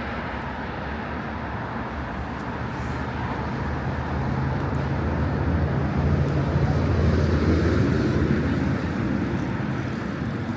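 Street traffic, with one vehicle's low engine hum swelling as it passes close. It is loudest a little past the middle, then fades.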